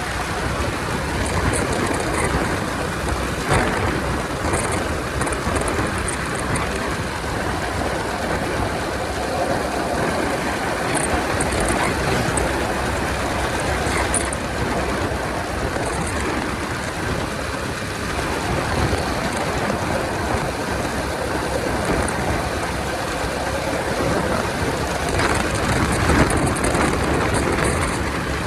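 Steady rush of wind and road noise from a Honda 125 motorcycle riding at highway speed, with no distinct engine note standing out.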